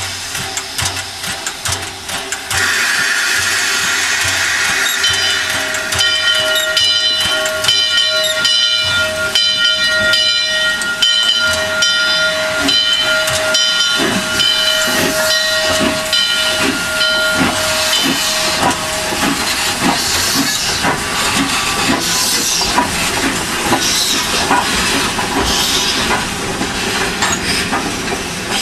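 Steam locomotive hissing, then its steam whistle blowing one long steady blast of about thirteen seconds. Exhaust chuffs begin under the whistle, about two a second, and hiss and chuffing carry on after it stops as the engine gets under way.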